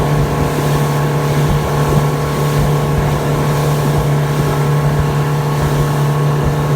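Motorboat engine running steadily under way, with a constant droning hum.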